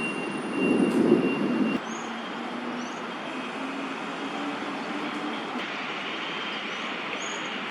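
City traffic noise with a heavy vehicle passing; a louder low rumble cuts off about two seconds in, then a low motor tone rises in steps over the next few seconds. A few short, high chirps sound over it.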